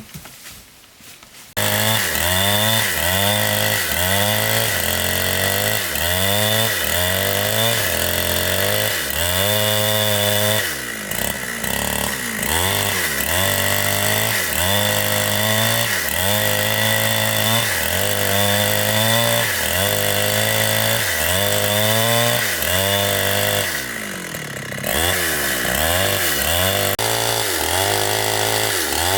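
Chainsaw running hard and cutting wood. It comes in suddenly about a second and a half in, and its pitch keeps rising and falling. It eases off briefly twice.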